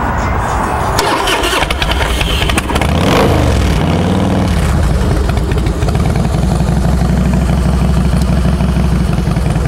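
Carbureted 88-cubic-inch Harley-Davidson V-twin running cold on partial choke through Vance & Hines Long Shot exhausts. It is revved up and back down once about three seconds in, then settles into a steady, low, pulsing idle.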